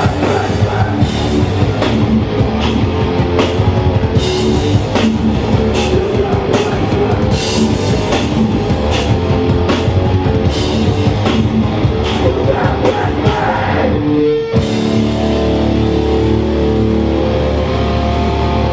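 Hardcore punk band playing live: distorted electric guitars, bass and drums with frequent cymbal and snare hits. About fourteen seconds in the music breaks off for a moment, then comes back as held guitar chords with the cymbals dropped out.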